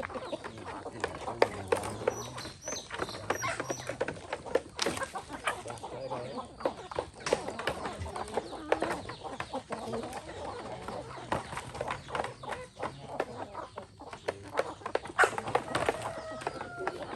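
Free-range chickens clucking, with a dense run of short sharp clicks and rustles throughout.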